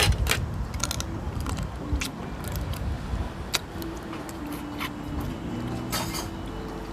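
Scattered sharp clicks and clinks of tableware and eating at a meal table, over a low background rumble.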